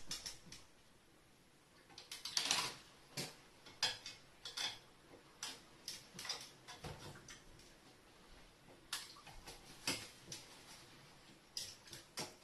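Irregular light clicks and taps, a few dozen short hard strikes, some in quick pairs, over a quiet room background.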